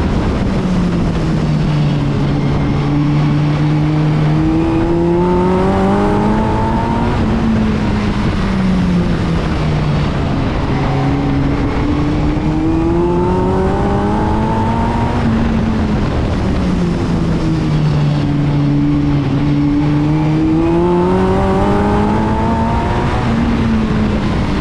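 BriSCA F2 stock car engine running hard around a short oval. Its note rises and falls in long, smooth sweeps about every seven or eight seconds, winding up along each straight and dropping back into each bend, lap after lap.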